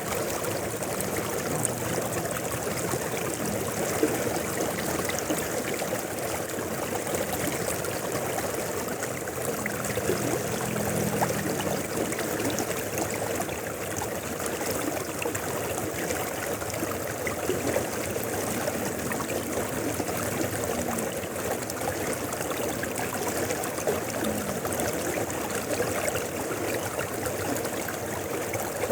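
Mountain river flowing steadily over rocks, a continuous rushing of water with small splashes.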